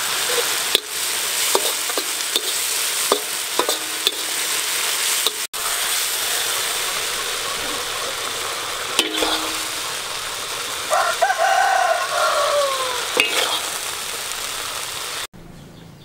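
Peanuts, ginger and spring onions sizzling in oil in a wok, with a metal spatula clicking and scraping against the pan. A rooster crows once about eleven seconds in. The sizzling cuts off suddenly near the end.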